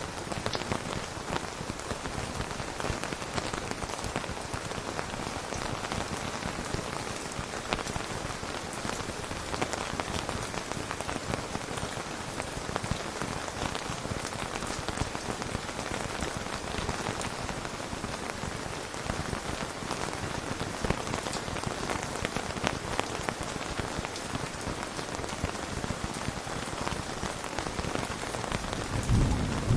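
Steady rain falling, a dense even patter with small scattered drips. A low rumble of thunder starts just before the end.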